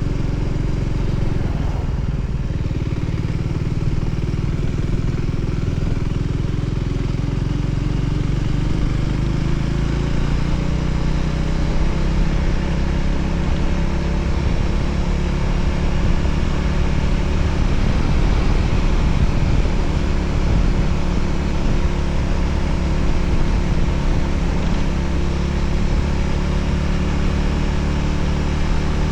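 Voge 300ACX motorcycle's single-cylinder engine running steadily under way, its pitch rising about a third of the way in, over a steady rush of noise.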